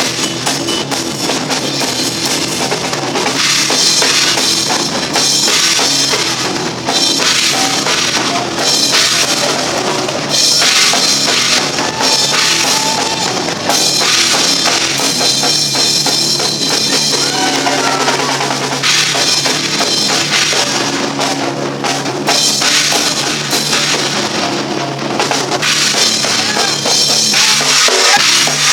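Rock band playing live, with the drum kit to the fore: steady bass drum and snare under constant cymbals, over a bass line.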